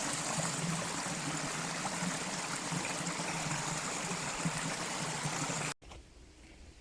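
Mountain stream flowing, a steady rush of water that cuts off suddenly near the end, leaving a much quieter background.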